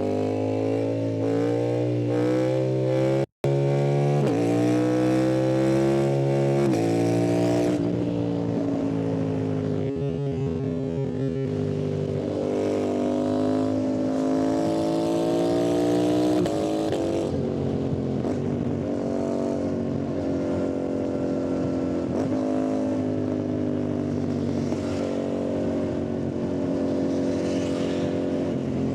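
Yamaha MT-07 parallel-twin motorcycle engine heard from the rider's seat, accelerating hard through several quick upshifts in the first eight seconds, its pitch climbing and dropping at each shift. It then eases off and runs on at a fairly steady, gently rising and falling speed. All sound cuts out for a split second about three seconds in.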